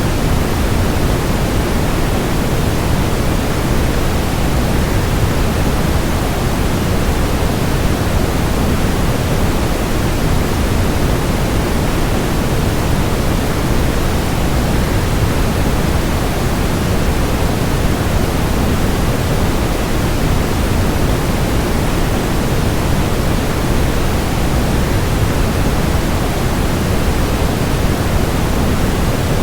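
Steady rush of a waterfall blended with continuous white noise: an even, unchanging hiss, heaviest in the low end.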